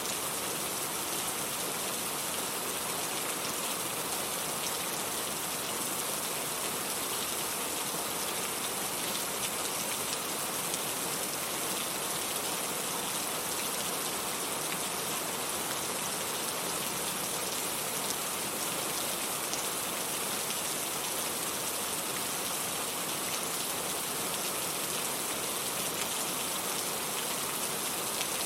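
Steady rain falling on a surface, an even hiss with fine pattering drops.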